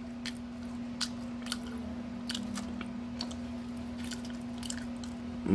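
A person chewing food, with scattered soft crunchy clicks, over a steady low hum.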